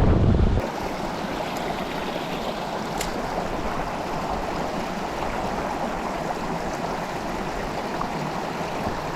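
Mountain stream water flowing steadily. There is a brief low rumble at the very start and a faint click about three seconds in.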